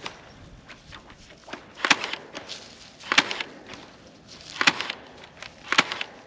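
Four sharp knocks at a slow, even pace, about one every second and a half.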